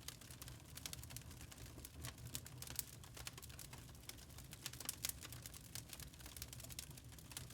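Wood fire crackling: a dense, irregular run of small sharp pops and snaps over a low, steady rumble.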